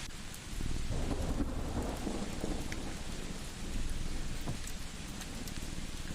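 Steady rain hissing, with a low roll of thunder from about half a second in to about three seconds. Underneath runs a cat's low purr, with a few faint crackles from a wood fire.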